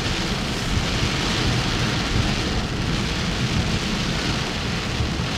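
Pouring rain: a steady, unbroken hiss of heavy rainfall, with a rumbling low end underneath.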